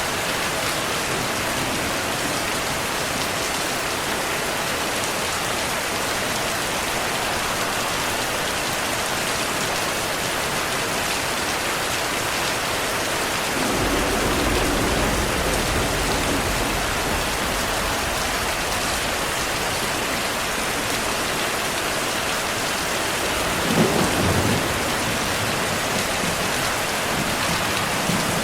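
Heavy rain falling steadily, with thunder: a low rumble of thunder rolls in about halfway through, and a shorter, louder thunder crack comes near the end.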